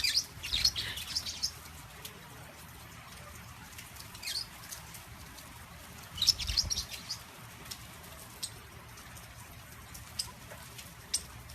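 Small pet parrots chirping in short clusters of high tweets: one right at the start, a brief one about four seconds in, and another between six and seven seconds, with a few single sharp tweets after that.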